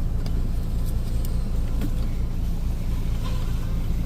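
Car engine idling steadily, with a few faint clicks in the first two seconds.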